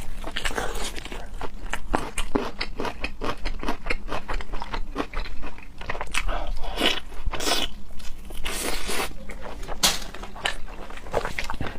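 Close-miked mukbang eating: a person biting, crunching and chewing food, heard as a dense run of rapid clicks, with a few longer rasping sounds around seven and nine seconds in.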